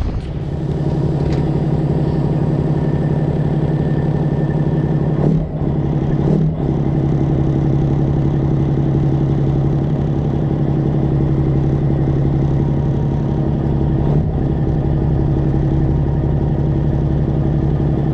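Diesel semi-truck engine, likely the straight-piped Detroit Diesel 12.7 in a Freightliner Classic XL, running steadily with a deep, even note. Its pitch and level change briefly about five and six seconds in and again near fourteen seconds.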